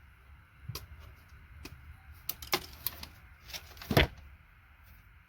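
Irregular clicks and taps of small hard plastic and metal parts being handled on a workbench, with one louder knock about four seconds in.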